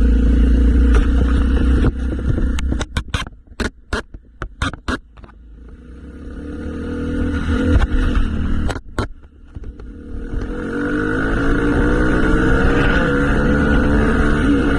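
Motorcycle engine running with a steady low rumble, then a run of about ten sharp clicks as the sound drops away. About ten seconds in, the engine revs back up, rising in pitch and getting louder.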